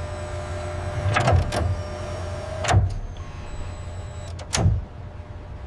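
Steady machinery hum with a faint high whine, broken by four sharp mechanical clunks: two close together about a second in, one near the middle, and one about three-quarters of the way through.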